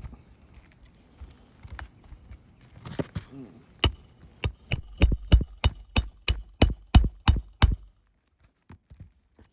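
Hammer striking metal on a roof during shingle work: a quick run of about a dozen sharp blows, about three a second, each with a short metallic ring, starting about four seconds in after a few lighter knocks.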